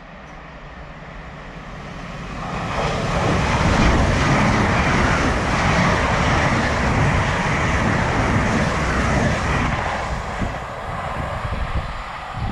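A train running past the platform: a rushing rumble builds over a couple of seconds, stays loud for about seven seconds, then fades away.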